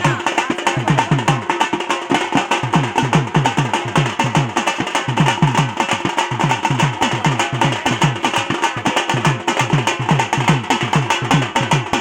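Drum beaten by hand in a fast, steady rhythm of about four to five strokes a second, each low stroke dropping in pitch, over a steady sustained backing of higher tones.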